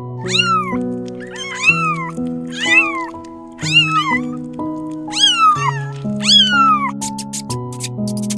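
An animal gives about six high calls, each rising and then falling in pitch, over background music with sustained notes; near the end a fast run of sharp clicks comes in.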